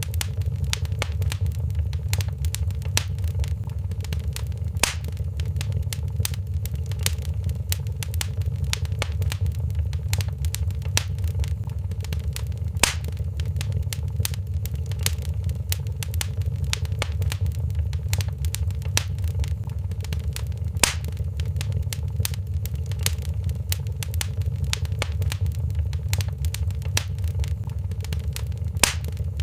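Wood fire crackling in a fireplace: dense small crackles over a steady low rumble, with four louder pops about eight seconds apart.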